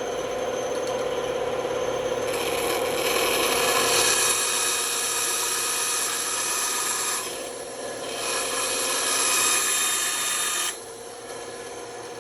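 Band saw running, its blade cutting into wood in two long passes: one starting about two seconds in and one near the end. After the second pass it runs on with no load.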